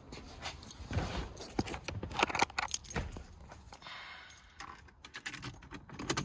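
Car keys jangling as they are handled, with scattered clicks and light knocks.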